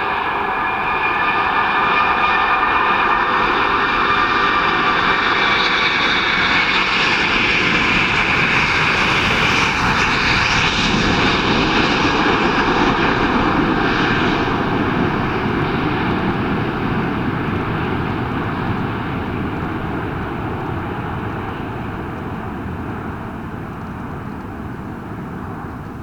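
Emirates Airbus A380's four jet engines at takeoff power as it passes: a whine made of several tones sliding slowly down in pitch over a broad rushing noise. The sound is loudest in the first half and then fades steadily as the airliner climbs away.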